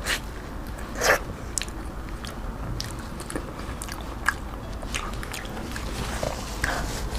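Mouth sounds of someone eating soft, creamy durian: scattered wet smacks and chewing clicks, with a louder bite about a second in.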